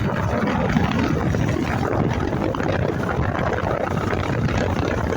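Motorcycle running while riding on the road, with wind rushing over the camera microphone: a steady, even noise with no sudden events.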